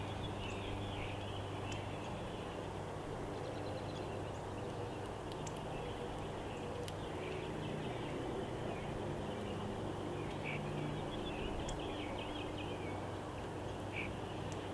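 Steady low hum with scattered faint chirps of small birds and a few sharp clicks.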